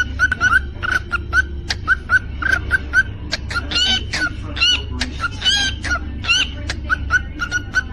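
Cockatiel chirping in quick, short repeated notes, several a second, with a few longer whistled notes in the middle, over a steady low hum.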